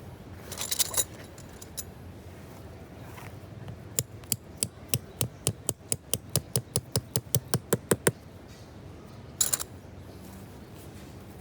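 Small hard objects clinking and jangling briefly, then a steady run of about fifteen sharp knocks, about four a second, lasting some four seconds, then another short clinking jangle near the end.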